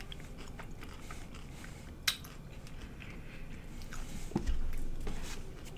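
Close-miked chewing and biting of a crunchy taco, with a sharp crunch about two seconds in and a low knock about four and a half seconds in.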